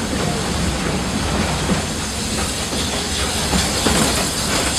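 Walt Disney World Railroad steam train running along the track, heard from aboard: a steady rumble with the wheels clicking over the rail joints.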